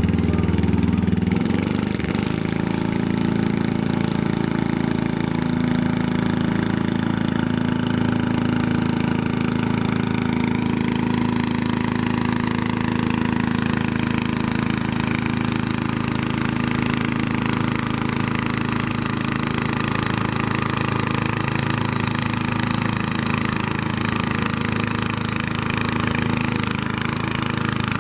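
A pulling tractor's engine running loud and steady, its pitch settling about a second in after being revved.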